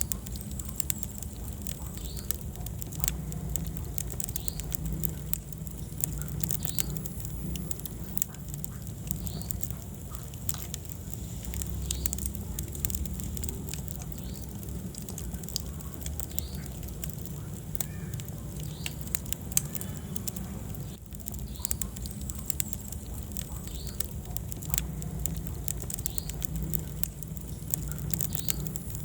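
Wood fire burning in a fireplace: steady low flame rumble with frequent sharp crackles and pops, and now and then a short faint high squeak.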